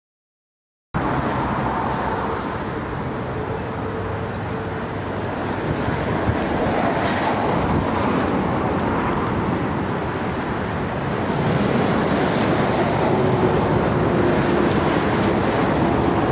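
Strong, gusty wind buffeting the microphone, with the steady noise of a jet airliner's engines beneath it. The sound cuts in from silence about a second in.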